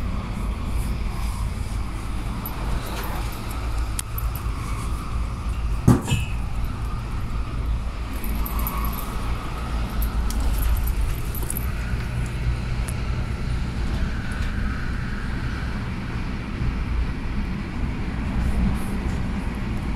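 Interior running noise of an MTR Airport Express A-Train in motion: a steady low rumble from the wheels and running gear, with one sharp knock about six seconds in.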